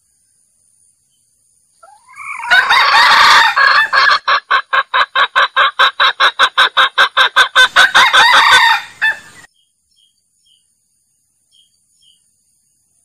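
Junglefowl calling as a trapping lure: a drawn-out opening call, then a fast run of loud clucks at about four or five a second that stops suddenly about nine seconds in.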